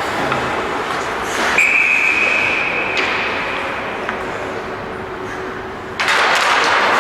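A referee's whistle blown once: a steady high tone about one and a half seconds long, over continuous background noise that gets suddenly louder near the end.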